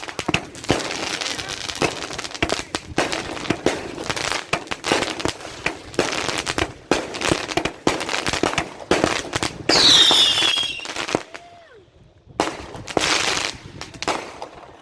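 Fireworks going off close by: a rapid string of bangs and crackles. About ten seconds in comes a loud whistle falling in pitch, then a short lull and more bangs.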